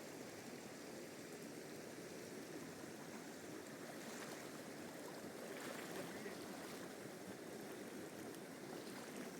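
Steady, faint rushing of river water.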